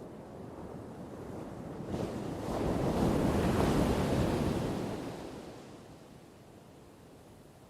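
A single ocean wave breaking as surf: the rush swells, crashes about two seconds in, is loudest around three to four seconds, then washes out and fades.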